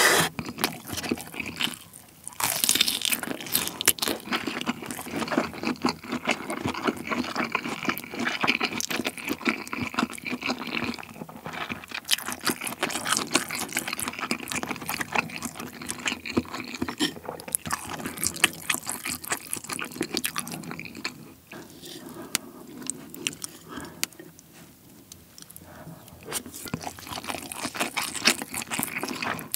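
Close-miked mouth sounds of a person chewing kielbasa sausage and fried rice: a steady run of small wet clicks and crunches, softer for a few seconds in the latter half.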